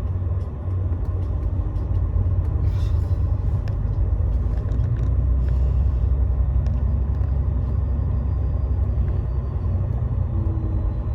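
Steady low rumble of a Scania Astromega double-decker bus on the move, heard from inside the cabin, with scattered light clicks and a brief hiss about three seconds in.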